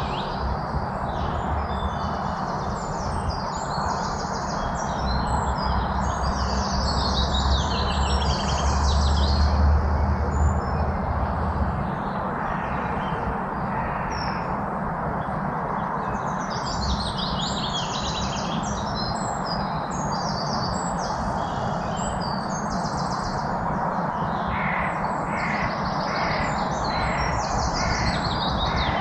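Many songbirds chirping and trilling in quick overlapping phrases, over a steady outdoor background hiss, with a low rumble swelling in the first half.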